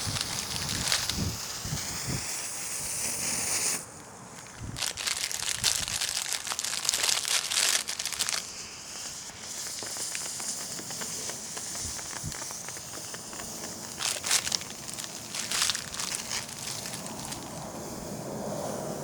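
Smoke ball firework burning with a crackling hiss. It dips about four seconds in, then surges louder for a few seconds before settling back to a steadier hiss.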